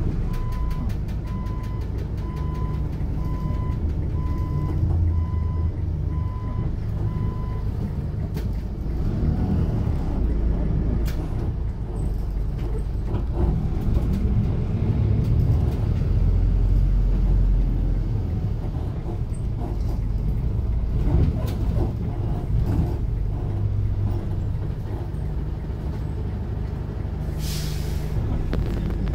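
Cummins ISF3.8 four-cylinder turbodiesel of a Daewoo Lestar bus running, heard from on board as a steady low rumble. For the first seven or eight seconds an electronic warning beep repeats a little over once a second, then stops. A short hiss of air comes near the end.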